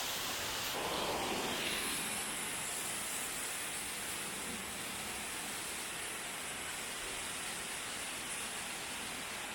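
Waterfall rushing: a steady rush of falling water, swelling slightly about a second in.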